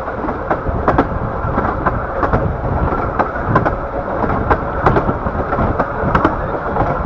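15-inch-gauge railway coach running along the track: a steady, loud rumble of wheels and carriage, with irregular sharp clicks and knocks from the wheels on the rails.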